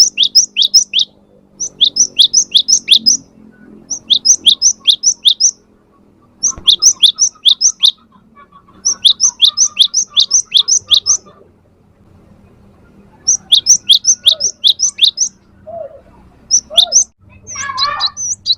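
Cinereous tit singing: bouts of quick, high, repeated two-part notes, about five to eight to a bout, with short pauses between bouts. Near the end a lower, jumbled warbling call joins in.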